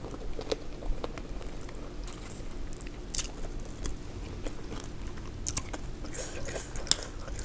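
Close-up eating sounds: a person chewing seafood, with a few scattered sharp crunches and clicks.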